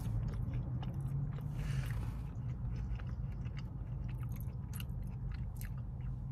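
Close-up chewing of a mouthful of food: soft wet smacks and small mouth clicks, with a steady low hum underneath.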